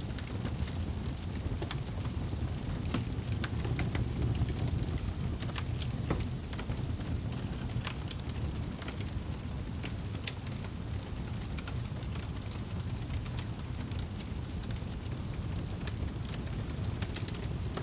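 Wood fire crackling in a fireplace: a steady low rumble of flames with many irregular sharp pops and snaps from the burning firewood.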